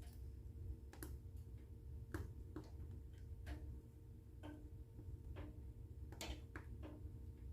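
Wood fire burning in a fireplace, crackling with irregular sharp pops, the loudest about six seconds in, over a low steady rumble.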